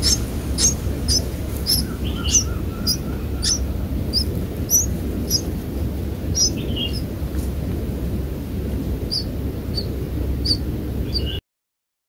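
Small bird chirping: short, high chirps repeated at first about twice a second, then more scattered, over a steady low rumble of wind on the microphone. The sound cuts off abruptly near the end.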